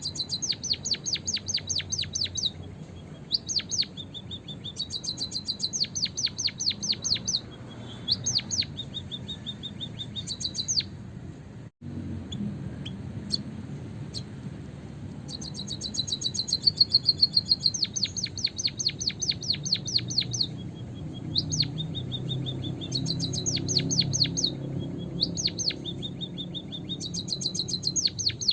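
White-headed munia (emprit kaji) calling: repeated runs of rapid, sharp, high-pitched notes, each run lasting one to three seconds, with short gaps between. The sound cuts out for an instant about twelve seconds in.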